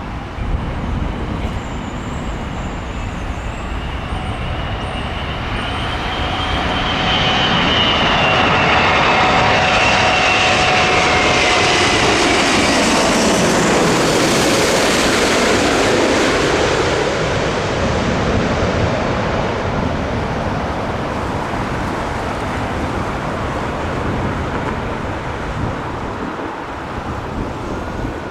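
Airbus A380-800, a four-engine airliner, passing low overhead on final approach to land. Its jet engines make a rushing sound that builds to a peak in the middle, with a whine that falls in pitch as it goes by, then fades to a steady rumble.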